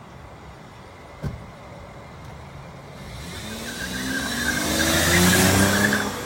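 A car accelerating hard, its engine rising steadily in pitch and getting louder from about halfway through, with a squeal of tyres. A single knock is heard about a second in.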